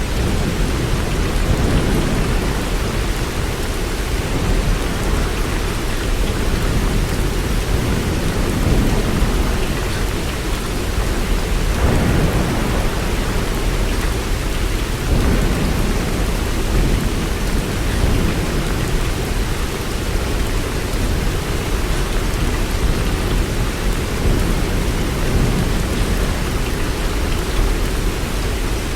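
Heavy rain falling in a steady, continuous hiss, with soft low rumbles of distant thunder swelling now and then, one clearly about twelve seconds in.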